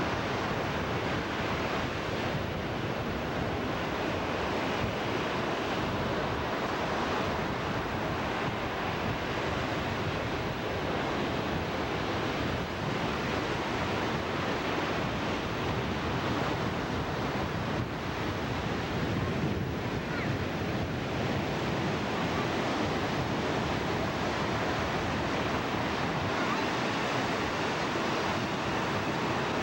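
Steady rushing water noise, with wind on the microphone.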